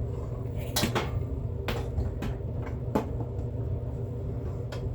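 A pot being handled as beeswax is set to melt: several separate light knocks and clatters, about five in all, over a steady low hum.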